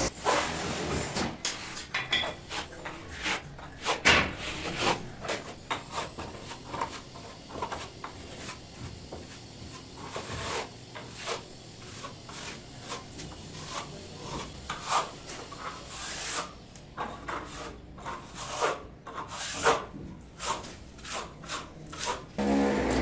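Hand tools scraping and tapping on fireplace masonry: irregular rubs and short knocks, several to a second, with pauses between.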